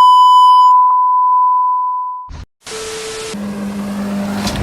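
A censor bleep, a pure tone of about 1 kHz, held for about two seconds and fading a little before it cuts off. After a moment of silence, a rushing noise with a steady low hum begins.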